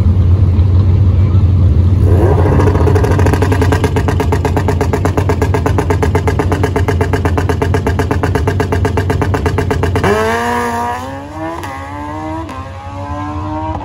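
A motor-vehicle engine running with a rapid, even pulsing at a steady speed. About ten seconds in, its pitch climbs and then drops back twice, as through gear changes while accelerating.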